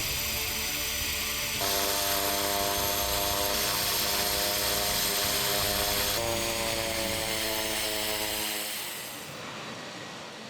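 Pratt & Whitney turboprop engine of a Kodiak 900 aircraft running with a steady propeller drone, cut together from several shots so that the sound jumps abruptly every few seconds. It drops away sharply about eight and a half seconds in.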